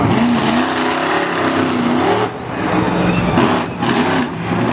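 Loud vehicle engines revving, the pitch rising and falling repeatedly, with a brief dip in loudness a little past halfway.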